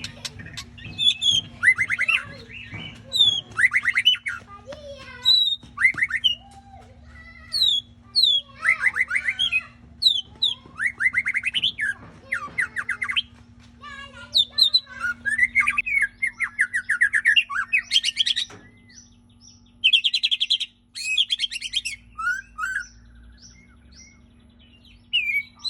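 White-rumped shama (murai batu) singing vigorously: a long string of varied whistled phrases, quick trills and rising notes, with short pauses between phrases. A steady low hum runs underneath.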